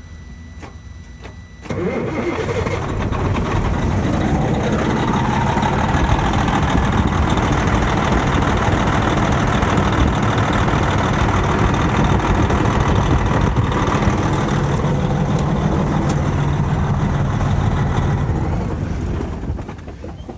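Detroit Series 60 diesel engine, with injector number 2 unplugged, cranking and firing about two seconds in after a steady high tone, then running steadily on its remaining cylinders until it dies away near the end. It starts because the shorted number-2 injector is disconnected: that injector was shorting the whole injector circuit and causing the crank-no-start.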